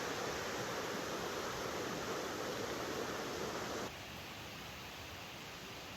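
Steady rush of water from a small waterfall or rapids, an even hiss with no separate splashes; it drops abruptly to a quieter level about four seconds in.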